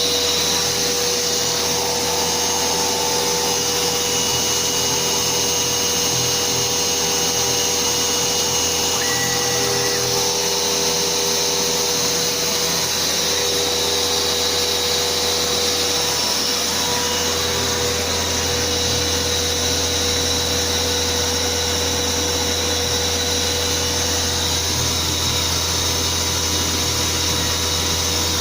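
A 6040Z CNC router's spindle runs steadily together with its dust extraction vacuum, with a high whine over a steady rushing noise. A 0.3 mm double-flute end mill is etching the copper of a single-sided PCB.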